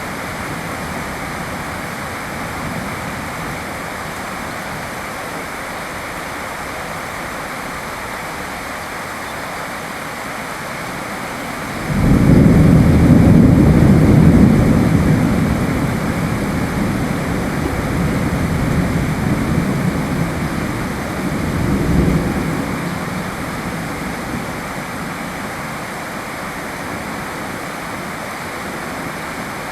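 Steady rain falling, with a roll of thunder that breaks in suddenly about halfway through, rumbles on for several seconds as it slowly fades, and swells once more near the end of the rumble.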